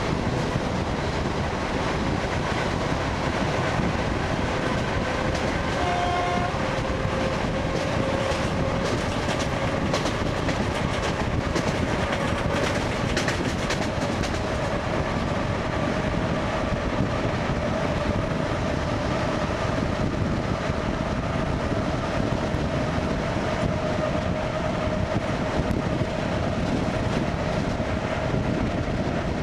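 ED9MK electric multiple unit heard from inside the carriage, with the steady running noise of the car on the rails and some clicks of the wheels. Over it, a faint whine from the traction motors rises slowly in pitch as the train gathers speed, then holds steady.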